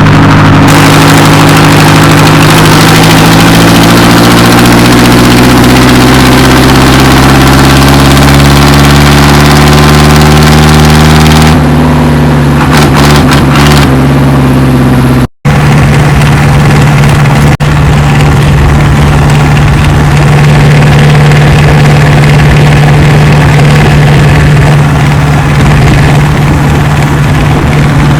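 Tractor diesel engine running very loud, its pitch rising slowly over the first ten seconds or so as it revs up. After a brief sudden break about halfway through, it runs steadily.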